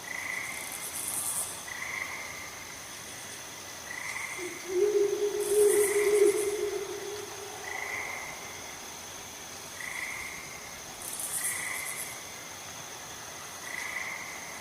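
Night chorus of frogs and insects. A short high call repeats about once every second and a bit over a steady, high insect drone with brief higher buzzes. A louder, lower drawn-out call comes in about four seconds in and lasts a couple of seconds.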